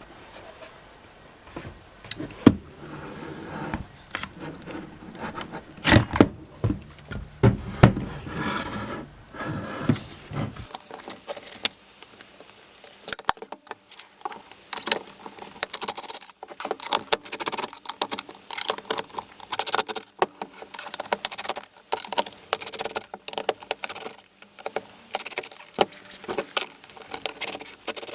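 Hands working on the plastic housing and small parts of a Makita cordless stick vacuum: irregular clicks, taps and rattles of plastic and small metal parts, with heavier knocks in the first ten seconds and rapid sharp clicking after that.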